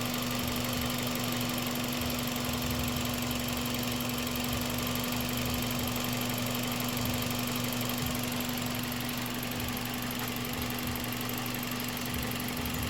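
Toyota Vios engine idling steadily, with a constant hum.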